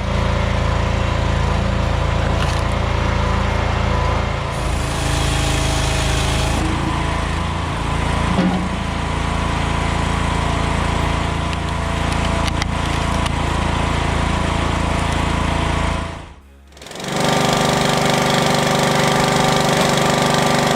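A machine running steadily with background music over it. The sound drops away briefly near the end, then picks up again.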